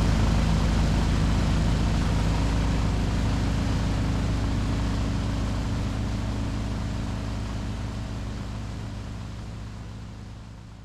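Go Devil surface-drive mud motor running steadily as the boat travels, gradually fading out over the last few seconds.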